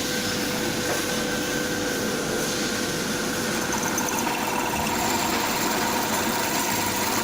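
Hitachi bench drill press running steadily with a motor hum and whine; a second, higher tone joins about halfway through.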